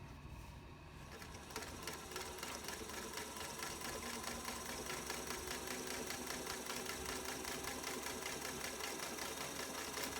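Freshly overhauled 1947 Singer 221 Featherweight sewing machine stitching through two layers of denim at full stitch length. Its motor picks up speed over the first couple of seconds, then runs steadily with a fast, even ticking.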